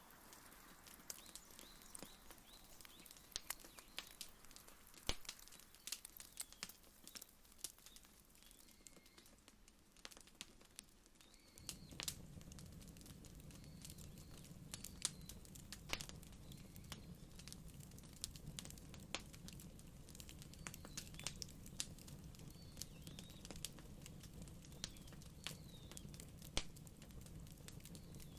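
Wood fire crackling, with irregular sharp pops and snaps throughout. A few faint bird chirps sound in the background, and a low steady rumble comes in about twelve seconds in.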